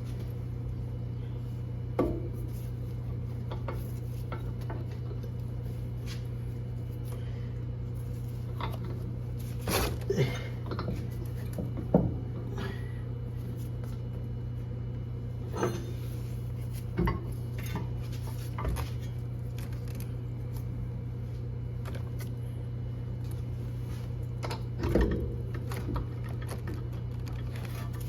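Scattered metallic clinks and knocks of tools and parts being worked on the axle of a Honda CR-V, a dozen or so spaced several seconds apart, the sharpest about twelve seconds in, over a steady low hum.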